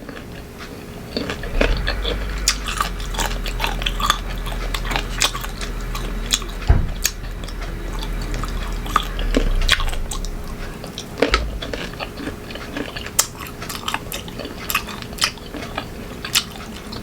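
Close-miked biting and chewing of crunchy unripe green mango: a run of sharp, crisp crunches and chewing clicks.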